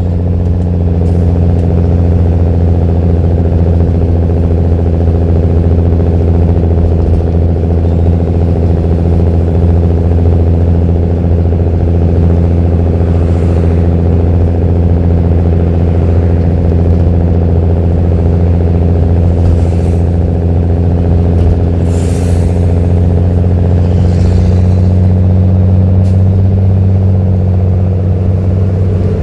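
Mercedes-Benz OH-1318 bus's diesel engine idling steadily through an open, free-flowing exhaust, a deep, even drone that holds one pitch.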